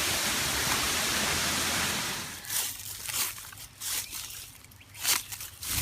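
Steady rushing of a waterfall for about two seconds, then broken into short bursts of rushing water with quieter gaps between them.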